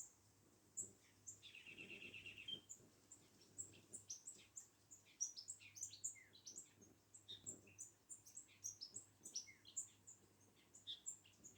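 Small bird chirping, a rapid run of short, high chirps, with a brief buzzy trill about a second and a half in.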